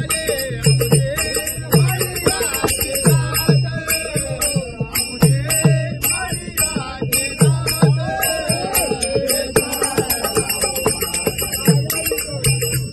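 Group singing of a Marathi abhang in bhajan style, with small hand cymbals clashing and jingling in a steady rhythm and a hand drum beating deep strokes whose pitch slides down.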